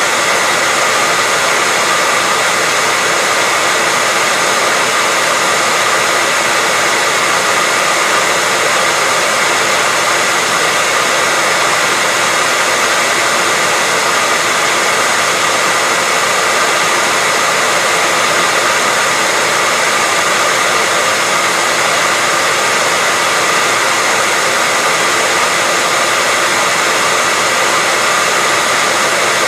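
Hair dryer running steadily: an even, unbroken airy hiss with a faint steady whine from the fan motor.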